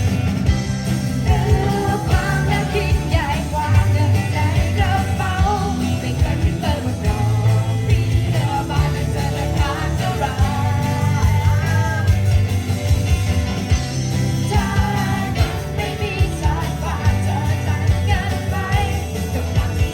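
A live band playing a pop-rock song, with a steady drum beat and bass under a wavering melody line.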